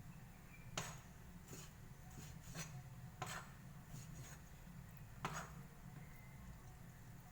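Irregular knocks, clicks and light scrapes of kitchen prep work, with three sharper knocks standing out, over a steady low hum.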